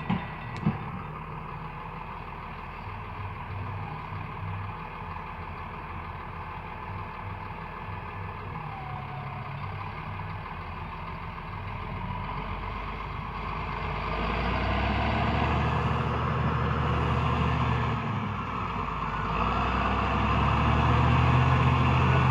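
Heavy diesel engine running at low revs, then picking up about twelve seconds in and running louder, with a brief drop a few seconds before the end. Two sharp knocks right at the start.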